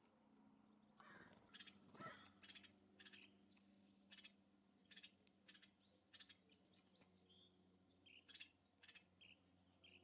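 Faint wild bird calls: a scattered run of short chirps and chips, with a louder, harsher call about one to two seconds in and a few brief whistled notes.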